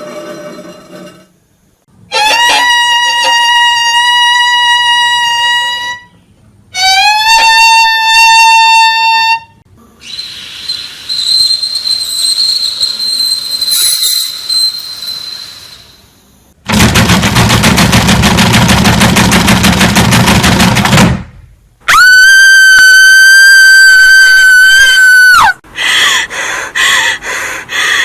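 A run of separate horror sound effects with short gaps between them. First come two long, high, pitched cries or tones, the second sliding up as it starts. Then a hissing stretch with a thin high tone, a loud noisy blast with a heavy low end, a very loud steady high-pitched tone, and near the end a fast pulsing sound.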